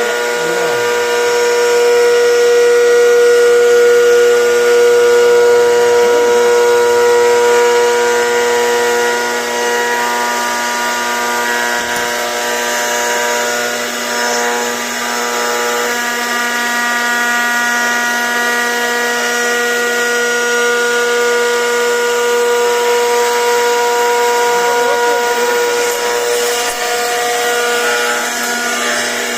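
CNC router spindle running steadily with a high whine made of several even tones, the tones shifting slightly now and then.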